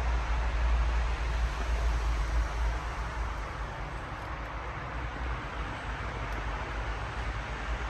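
Steady outdoor background noise with a low, fluctuating rumble, louder in the first few seconds.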